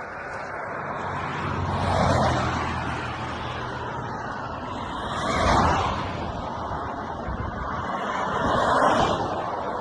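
Cars driving past one after another: three swelling passes that rise and fade, about three seconds apart, with a low engine hum under the first.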